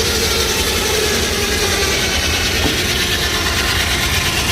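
Tractor-powered sawmill's circular saw blade cutting through a log: a steady, even hiss over the low, steady running of the tractor engine driving the mill.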